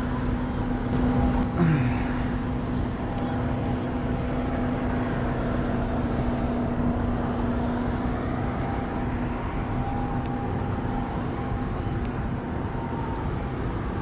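Electric trolling motor humming steadily, fading about two-thirds of the way through, over a constant low rumble.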